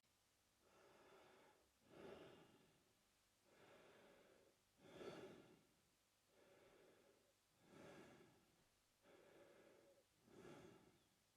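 A man breathing slowly and quietly through his mouth. About four breath cycles, each a longer, softer breath followed by a shorter, louder one.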